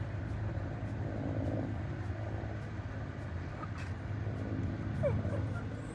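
Steady low engine drone of a low-flying firefighting aircraft overhead, with a few short chirps about five seconds in.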